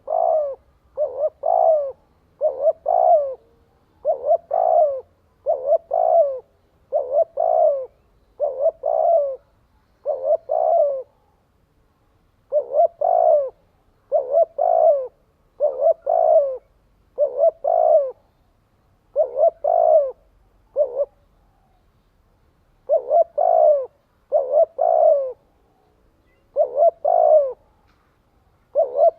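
Spotted dove cooing quickly and repeatedly, each phrase a short run of two or three low coos, with brief pauses about 11 s and 21 s in. This is the fast 'thúc' call of a decoy dove, used to stir up wild doves.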